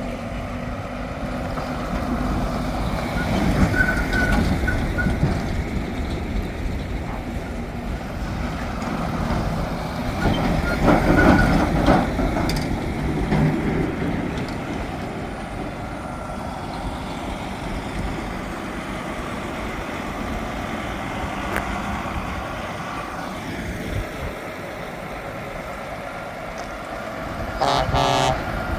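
Heavy trucks driving past one after another, their diesel engines swelling louder as each one goes by. A brief pitched horn blast sounds near the end.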